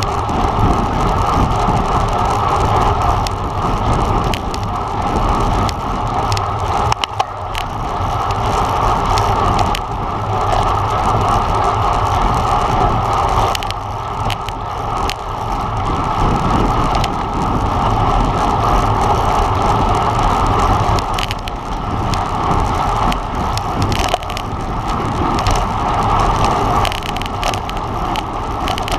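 Steady rush of wind and road noise from a road bike ridden at race speed, heard through a camera microphone buffeted by the wind, with scattered small clicks and rattles.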